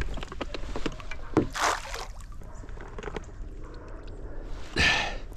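Knocks and light clatter in a small boat, with two short splashes about a second and a half and five seconds in as bait is thrown into the river.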